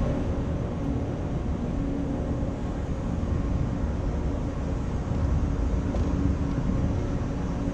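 Steady low rumble of a large hall's ventilation with a faint constant hum.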